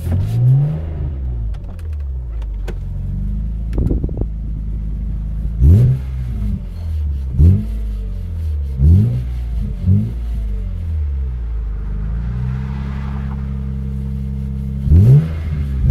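BMW M3 E46's 3.2-litre inline-six (S54) with an MK Motorsport exhaust, idling and being blipped about six times. Each rev rises sharply and falls straight back to idle.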